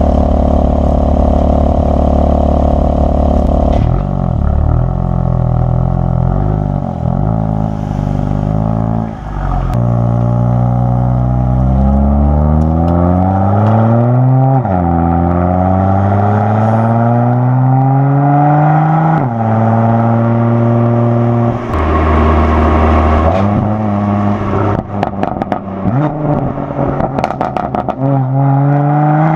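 BMW M4 Competition's S55 twin-turbo inline-six through a custom non-resonated equal-length midpipe, pulling hard through several gears: the pitch climbs on each pull and drops sharply at each upshift. Near the end a run of sharp exhaust pops and crackles comes as the throttle eases, before it pulls again.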